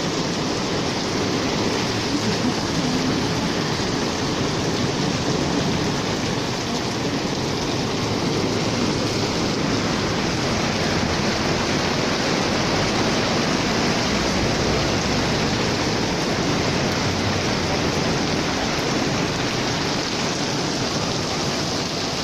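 Heavy rain falling and splashing, a steady dense hiss of rain.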